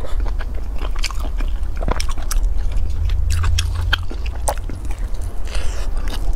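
Close-miked biting and chewing of crispy fried food, with many short, sharp crunchy crackles over a steady low hum.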